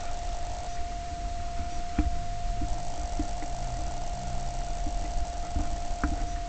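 A steady whining tone over a low rumble, with scattered knocks and clicks: the poor sound of a handheld recording.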